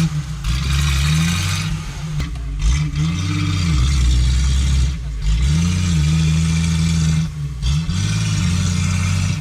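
Off-road 4x4's engine revving hard again and again, its pitch climbing and falling in repeated surges, with a steady rushing hiss over it and brief drops in the sound a few times.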